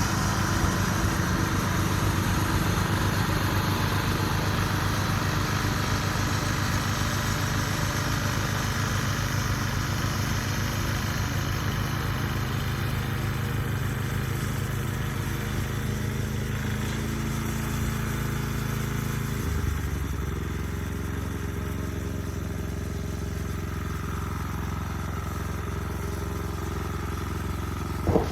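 An engine running steadily, dropping to a lower pitch about two-thirds of the way through as it throttles down.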